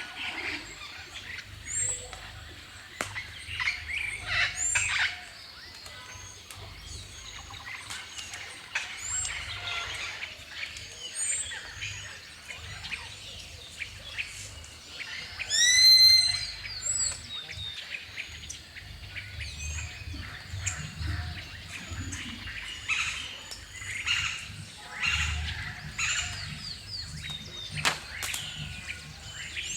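A chorus of songbirds chirping and singing, many short overlapping calls throughout. About halfway through, one bird gives a louder, clear rising call repeated a few times in quick succession. A faint low rumble runs underneath.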